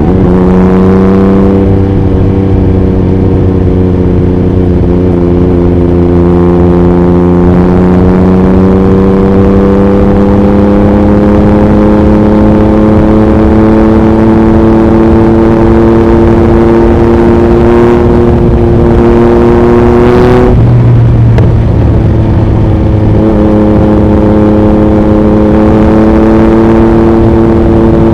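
2021 Yamaha MT-09's 890 cc inline-three through an Akrapovič racing exhaust, heard while riding at highway speed. The engine note climbs slowly under steady throttle, drops out for a couple of seconds about twenty seconds in, then picks up again, with wind noise on the microphone throughout.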